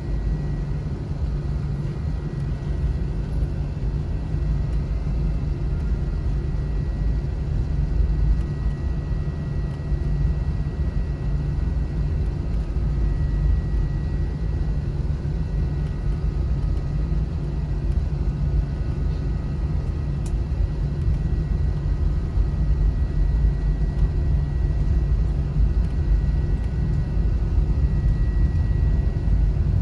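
Airliner cabin noise: a steady low rumble of the jet engines and airframe, with a thin, high, steady whine on top, slowly getting a little louder.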